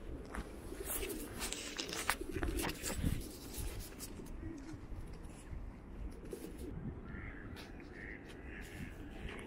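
Birds calling, with a low cooing in the first few seconds, against a run of sharp clicks and knocks.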